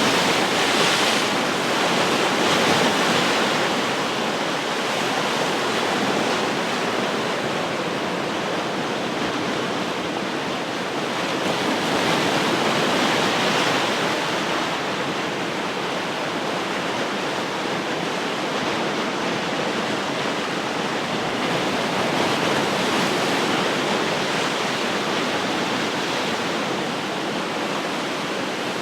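Ocean surf: a steady rush of waves breaking and washing ashore, swelling slightly louder near the start and again about halfway through.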